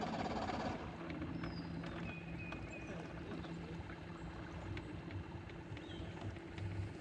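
A boat's outboard motor running cuts out suddenly under a second in, an engine stop the boaters then put down to a tripped kill switch. After it, birds chirp over a faint low hum, with a few light clicks.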